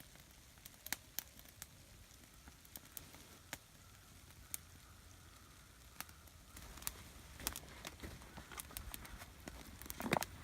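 Wood campfire crackling, with scattered irregular small pops and a brief louder rustle near the end.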